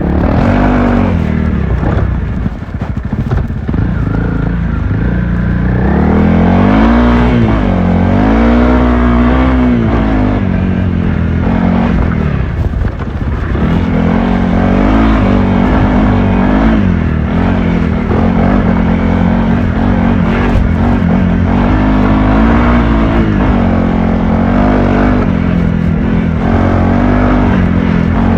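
Honda CRF300L's single-cylinder four-stroke engine under hard off-road riding, its pitch repeatedly rising and falling as the throttle is worked. It briefly drops off throttle a few seconds in and again about twelve seconds in.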